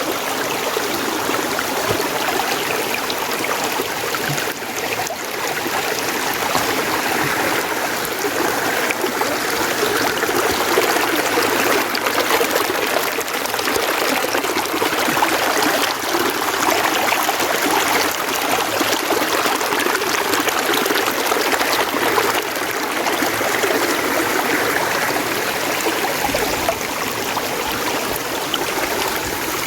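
Mountain stream running steadily, a continuous rush of water.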